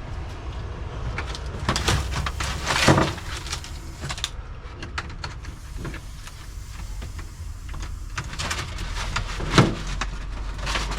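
Handling noises from close work on wiring: scattered clicks, knocks and rustles, the loudest about two to three seconds in and again near the end, over a steady low hum.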